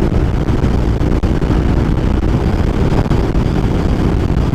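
Honda NC700X parallel-twin motorcycle engine running under way, mixed with wind rushing over the microphone.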